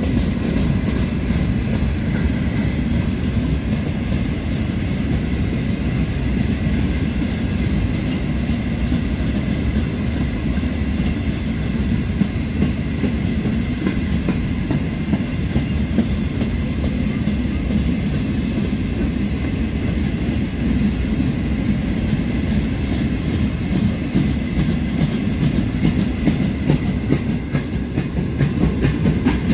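Grain train hopper wagons rolling past, a steady rumble of steel wheels on rail with a clickety-clack over the rail joints that grows sharper near the end.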